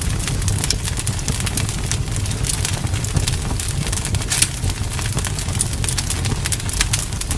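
Wood fire crackling: a steady low rumble with many quick sharp crackles and pops, one louder pop about four and a half seconds in.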